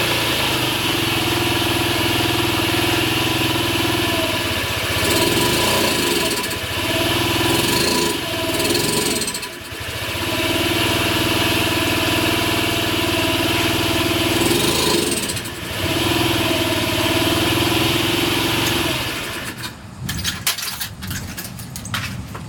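A 2009 Honda Ruckus 49cc single-cylinder four-stroke scooter engine running cold and unevenly. It sags and nearly stalls several times, which is the owner's unsolved fault of the engine dying off whenever throttle is given. The engine stops about twenty seconds in, followed by a series of sharp clicks.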